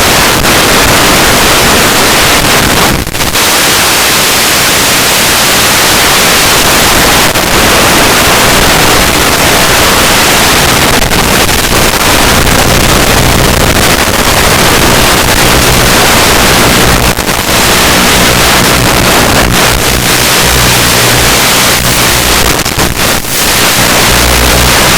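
Loud, steady rushing wind noise on the onboard microphone of a ZOHD Drift FPV plane in flight, with a low drone rising and falling underneath and a few brief dropouts.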